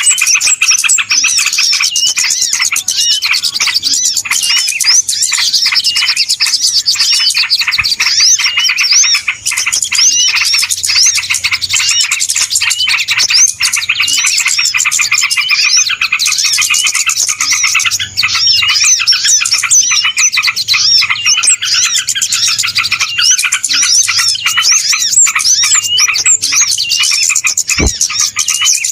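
Dense, noisy chorus of many small birds chirping and twittering without a break, their calls overlapping in quick sweeps: a bird-luring recording used to draw birds in for trapping. There is a short click near the end.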